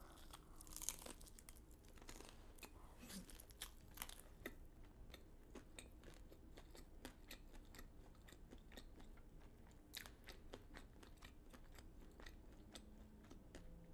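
Faint, close-miked chewing of crunchy fried chicken and waffles: irregular soft crunches and mouth clicks, a few slightly louder about a second in, around four seconds in and near ten seconds in.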